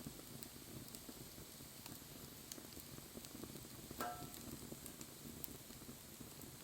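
Wood fire burning: a faint low flutter of flames with scattered small crackles, and one louder crack about four seconds in.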